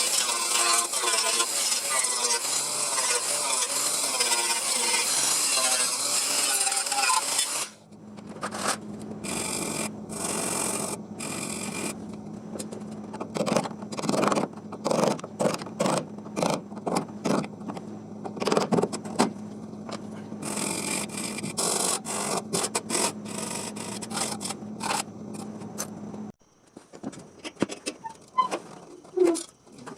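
A tool scraping and rubbing on a panel, continuous for the first eight seconds or so. It then breaks into irregular short scrapes and knocks over a steady low hum, which stops a few seconds before the end.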